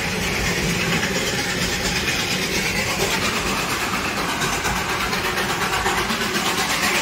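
Darjeeling Himalayan Railway narrow-gauge toy train running along the track: a steady rumble and rattle from the moving train.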